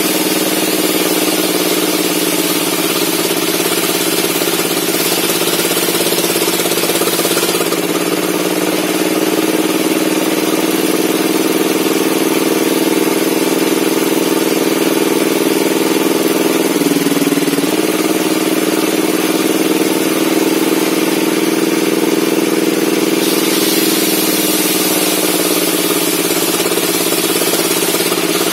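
A bench circular saw running steadily while it cuts log wood, with a high hiss from the blade in the wood during the first seven seconds and again near the end. The drive's pitch sags as the blade takes the load of the cut.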